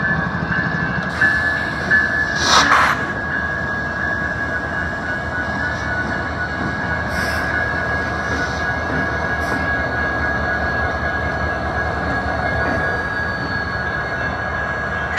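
Union Pacific diesel locomotives rolling slowly past a grade crossing, engines running and wheels on the rails, with a steady high-pitched wheel squeal. There is a loud clank about two and a half seconds in and a few lighter clanks later.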